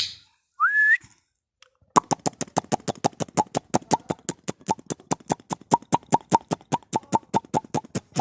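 Indian ringneck parrot gives a short rising whistle, then a long, even run of rapid clicks, about seven or eight a second, for around six seconds.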